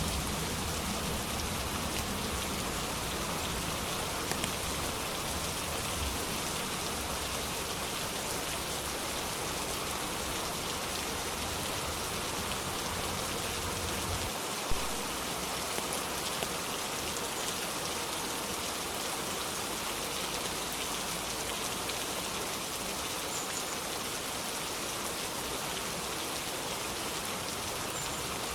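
Steady rain falling as an even hiss. A low rumble underneath stops about halfway through, and one sharp tick sounds just after.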